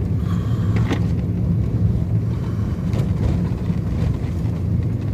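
Car moving along steadily: a constant low engine drone with road and wind noise.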